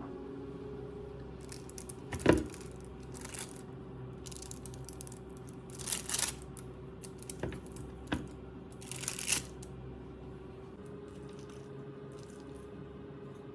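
Packaging being torn and crinkled by hand in short spells, with a couple of sharp knocks, the loudest a few seconds in. A faint steady hum runs underneath.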